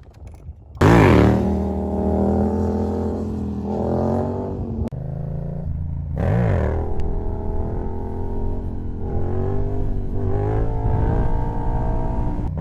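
Yamaha MT-07's 689 cc parallel-twin engine running loudly through its exhaust. It comes in suddenly about a second in with a sharp rev that rises and falls, holds a steady engine note, and blips up and down again about six seconds in.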